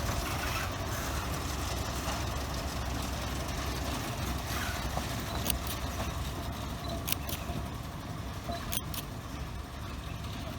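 Narrow-gauge sugar-railway train running with a steady low rumble that slowly fades. A few sharp clicks sound over it in the second half.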